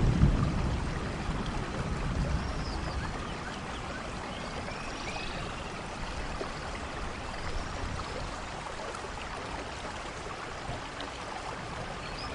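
Steady soft rainfall, an even hiss, with a low rumble at the start that dies away over the first couple of seconds. Faint high chirps come through a few times.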